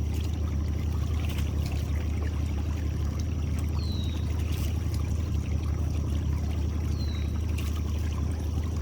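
Steady low hum of a boat motor running, with water trickling and pouring, as when a crab trotline is pulled up over the boat. A short falling chirp comes about every three seconds.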